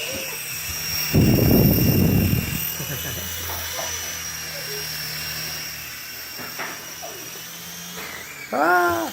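Small electric motors and rotors of a Sky Rover Vigilante toy RC helicopter whining steadily in flight. About a second in, a loud low rushing noise lasts for over a second.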